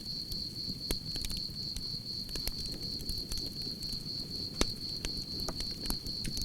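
Campfire crackling with irregular sharp pops, the loudest about four and a half seconds in, over a low steady rumble of flames, with crickets chirping continuously at a high, even pitch.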